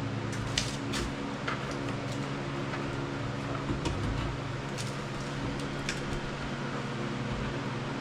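Steady machine hum with light clicks and taps scattered through it.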